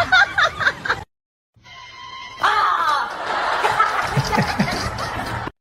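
Laughter and voices that cut off abruptly about a second in. After a short silence, another clip starts with steady tones and then a loud, noisy stretch of voices, which ends suddenly near the end.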